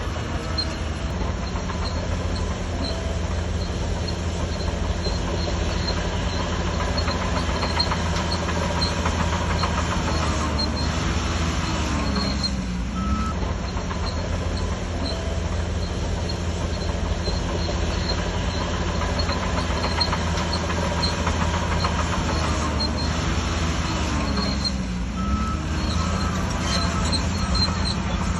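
Bulldozer diesel engine running steadily under load, its pitch sagging and recovering twice, about twelve and twenty-five seconds in.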